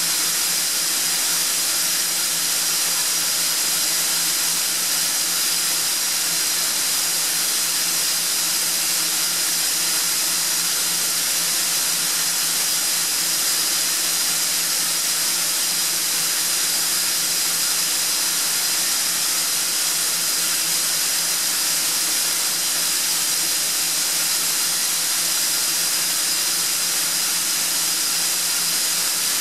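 Atlas Copco ZT 90 VSD FF oil-free rotary screw air compressor running steadily: a constant hiss of air and fan noise with a high, even whine and a low hum.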